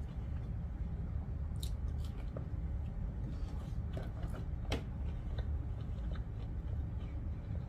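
Close-up chewing and biting on a crispy fried roll, with a few sharp crunches about two seconds in and again around four to five seconds in, over a steady low hum.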